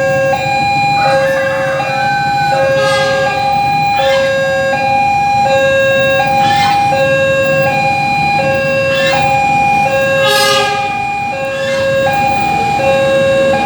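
Electronic two-tone warning alarm of a railway level crossing, alternating steadily between a high and a low tone about once a second. Brief clattering noises come in now and then.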